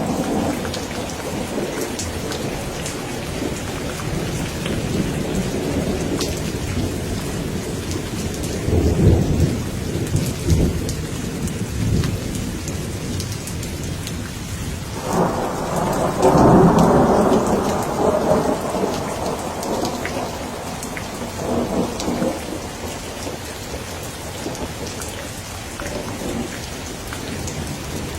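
Steady rain falling, with rolling thunder rumbling through it: one swell about a third of the way in and a louder, longer peal near the middle that fades away.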